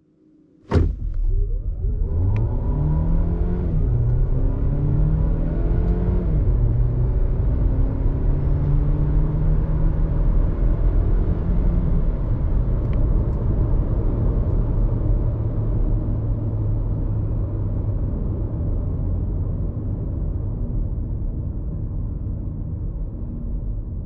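Kia Niro plug-in hybrid's 1.6-litre petrol four-cylinder accelerating hard, its pitch climbing and dropping back at each upshift of the six-speed dual-clutch gearbox, then settling into a steady drone over road rumble. A sharp click about a second in.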